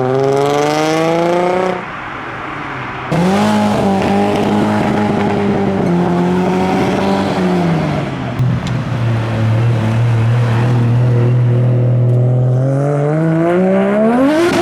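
A car engine being revved hard. The pitch climbs and cuts off about two seconds in, then comes back loud, is held high and steady, drops to a lower steady hold about eight seconds in, and climbs sharply again near the end.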